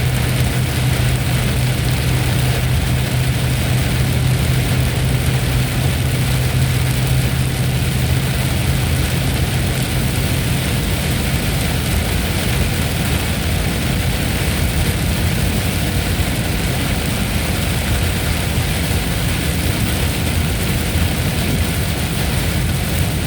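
Steady heavy rain, an even hiss and patter, with a low steady drone under it that fades out about halfway through.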